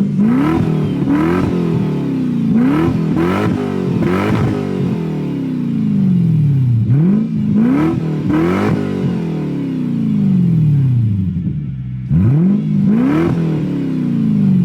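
Lexus SC400's 1UZ-FE V8 free-revved in a series of quick throttle blips, each rising sharply and falling back to idle, through an exhaust with the resonator and mufflers deleted. A cluster of blips comes in the first few seconds, a couple more near the middle and two near the end.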